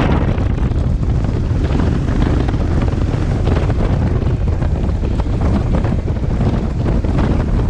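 Wind rushing hard over the microphone while riding a BMW R1200 GS motorcycle, a steady loud roar with a low rumble underneath.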